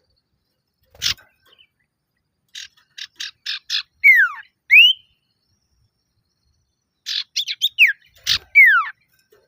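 Male common iora calling: a quick run of short rasping notes, then loud slurred whistles, some falling and one rising, repeated in a second phrase about three seconds later. Two sharp clicks come, about a second in and near the end.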